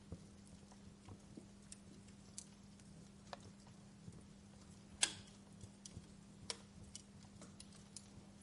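Wood fire in a fireplace crackling: irregular small snaps and pops from the burning logs, with one louder pop about five seconds in.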